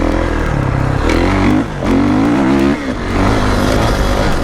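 Kawasaki KX450 dirt bike's single-cylinder four-stroke engine revving as it is ridden, its pitch climbing under throttle and dropping briefly twice as the throttle is chopped, then picking back up.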